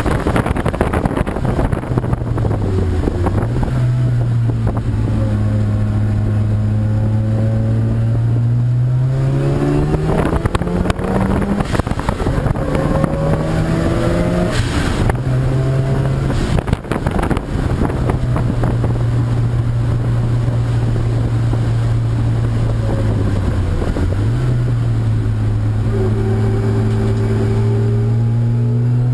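Racing car engine running hard, its pitch dipping and climbing several times as it lifts off and accelerates again, with wind noise on the microphone.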